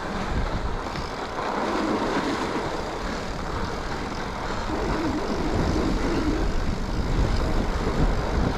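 Mountain bike on 2.8-inch tyres rolling over groomed, packed snow: steady tyre and drivetrain noise with low wind rumble on the microphone.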